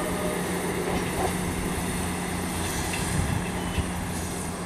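Class 158 diesel multiple unit running away down the line: a steady low diesel drone with wheel-on-rail noise, slowly fading as the train draws off.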